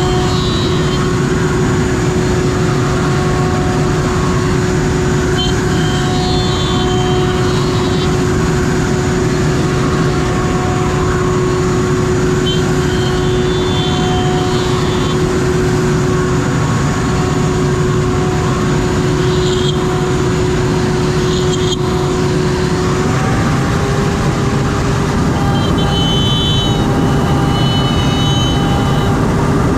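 CNC router milling beech boards: the spindle holds a steady whine over a loud, constant rushing noise, with short bursts of higher-pitched cutting sound every few seconds. The whine steps up slightly about two-thirds of the way through.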